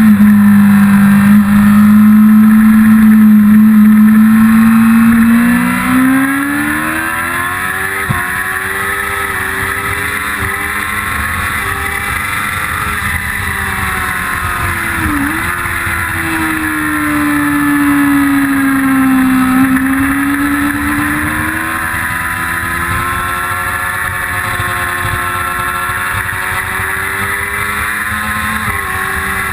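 1999 Yamaha YZF-R6's 600 cc inline-four engine running hard on track, loud and steady at first, then dropping back about five seconds in. After that its pitch rises and falls with throttle and gear changes, with one quick sharp dip near the middle.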